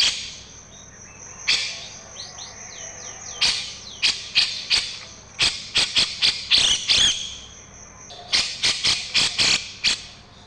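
Songbird calls from a masteran song-tutoring recording: groups of loud, sharp chirps repeated several times, over a thin steady high tone that cuts off near the end. A quick run of short whistled notes comes a couple of seconds in.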